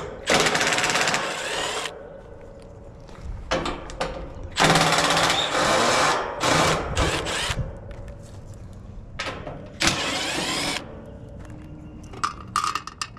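Cordless power driver running in three spurts, a short one, a longer one of about three seconds, and another short one, backing screws out of a condenser's top panel. A few light clicks follow near the end.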